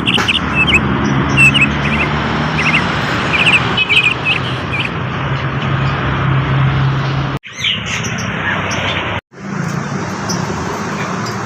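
Bali myna giving short, repeated chirping calls over the steady low hum of an engine. The chirps stop about halfway through, and the sound cuts out abruptly twice in the second half.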